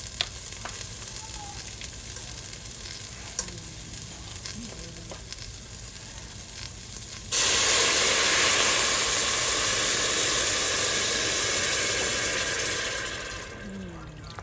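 Chopped onion sizzling in butter in a pot, with a few light clicks. About seven seconds in, chicken broth is poured into the hot pot and sets off a sudden loud hiss that lasts about six seconds and then dies down.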